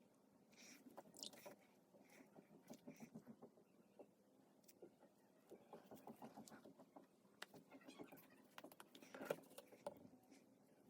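Faint, irregular scratching and tapping of a paintbrush working acrylic paint on the painting surface, with one sharper tap near the end.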